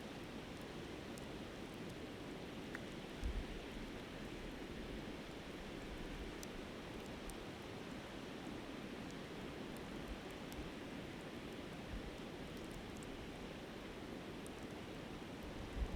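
Steady rush of a flowing river, with faint, scattered crackles from a campfire burning down to coals. Two short low thumps, about three seconds in and at the end, like wind buffeting the microphone.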